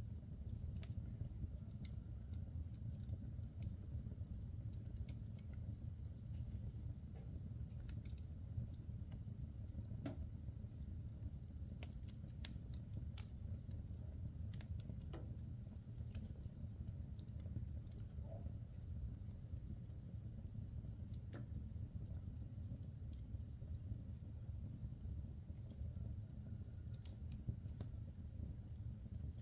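Wood fire burning in a fireplace: a steady low rumble with frequent small, irregular crackles and pops from the burning logs.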